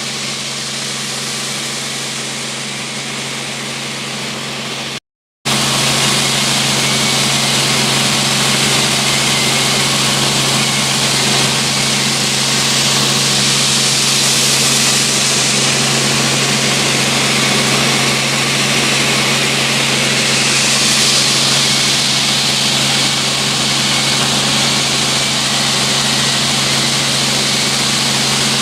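Helicopter running steadily: a constant engine and rotor drone with a high hiss. It cuts out briefly about five seconds in and comes back louder.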